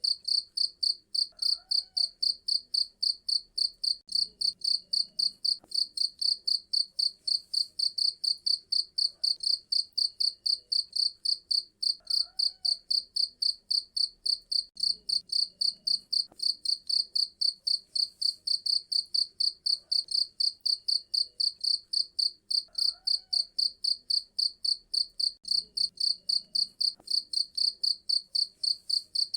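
Cricket chirping steadily: a continuous train of shrill, evenly spaced chirps, several a second, with no let-up.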